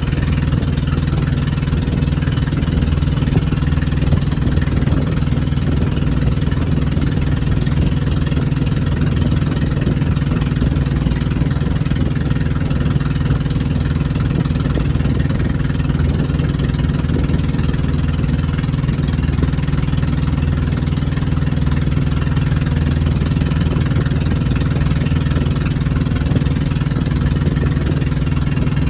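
Motorboat engine running at a steady speed: a constant low hum under a broad hiss.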